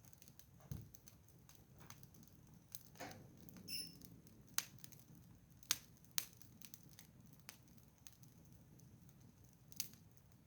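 Wood fire crackling quietly, with sharp irregular pops about every second or two, the loudest around 4.5 to 6 s in.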